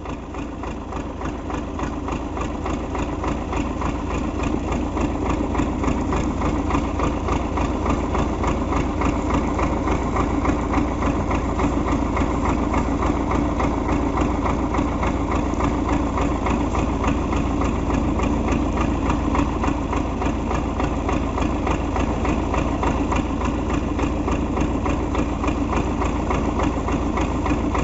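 MTZ (Belarus) tractor's diesel engine running steadily, getting a little louder over the first few seconds and then holding an even note.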